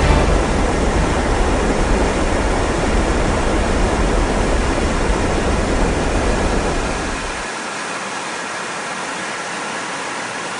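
Steady, loud jet aircraft roar without clear tones; the deep rumble drops out suddenly about seven and a half seconds in, leaving a lighter hiss.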